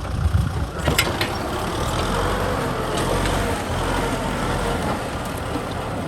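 Kubota M6040 SU tractor's diesel engine running steadily, with a few sharp clacks about a second in.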